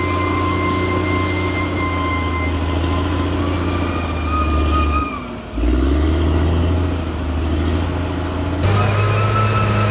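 Bulldozer's diesel engine running steadily, with high squeals from the steel tracks. The sound dips briefly about halfway through and changes abruptly near the end.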